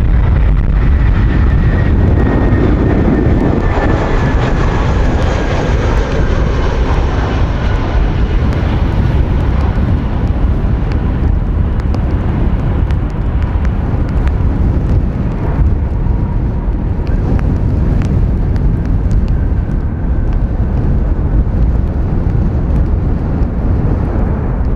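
Airbus A320-214's CFM56-5B turbofan engines whining as the airliner passes in to land, the whine falling slowly in pitch, under heavy wind noise on the microphone.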